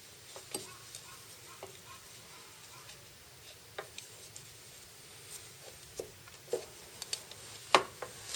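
Scattered light clicks and knocks of small hard objects being handled, about a dozen spread unevenly, with the loudest knock near the end.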